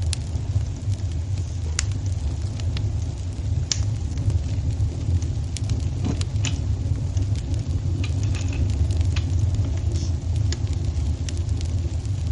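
Wood fire burning in a fireplace: irregular sharp pops and snaps over a steady low rumble.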